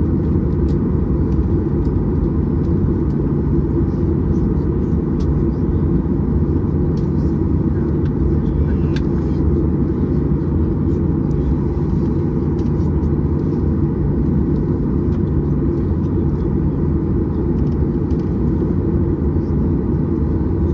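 Steady low rumble inside the cabin of a Boeing 737-800 as it reaches its parking stand, with faint clicks over it.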